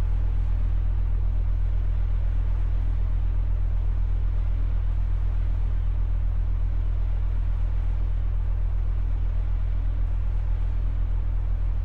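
Steady low hum and rumble from the Yamaha YP-800 turntable's record playback, with no clear music over it.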